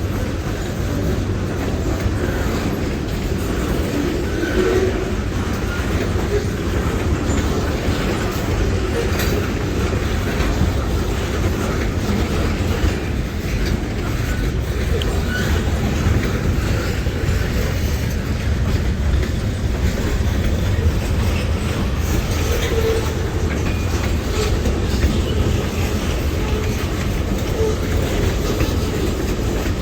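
Kiamichi Railroad freight train rolling past: a steady rumble of wheels on rail with clicking as the wheels run over the rail joints.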